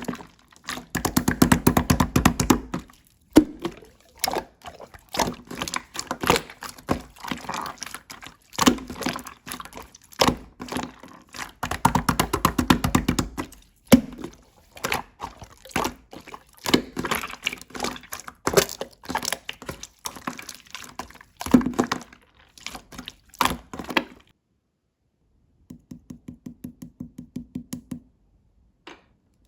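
Slime being squished and pressed by hand, making dense runs of small wet pops and clicks in bursts of a second or two. It stops about 24 seconds in and is followed by a quieter short run of evenly spaced clicks.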